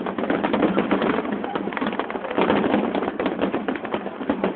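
Aerial fireworks finale: many shells bursting in quick succession, a dense run of bangs and crackle.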